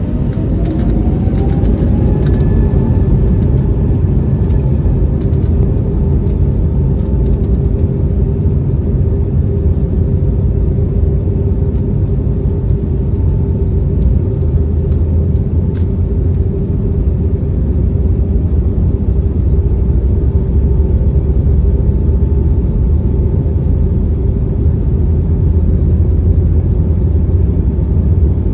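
Airbus A321neo jet engines spooling up for takeoff: a whine rises over the first couple of seconds, then holds a steady tone over a loud, steady rumble.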